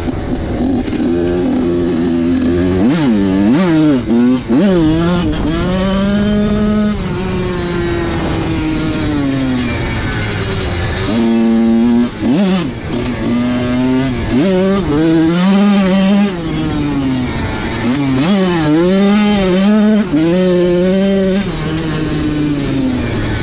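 Dirt bike engine revving and easing off again and again as it is ridden, its pitch rising and falling with the throttle.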